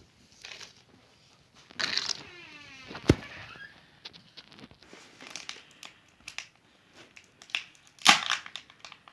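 Foil wrapping of Kinder Surprise chocolate eggs being crinkled and torn off in irregular bursts. A short falling squeak comes about two seconds in, a sharp click follows a second later, and the loudest burst of crinkling comes near the end.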